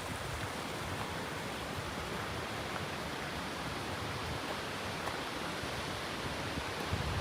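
Steady rush of running or falling water, an even hiss with no let-up. Low wind buffeting on the microphone comes in near the end.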